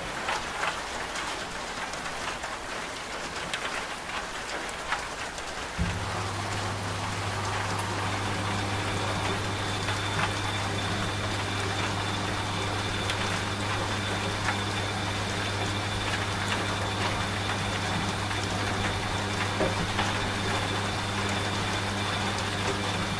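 Steady rain with scattered drop clicks, mixed with a washing machine's low, steady motor hum. The hum is absent at first and comes back abruptly about six seconds in.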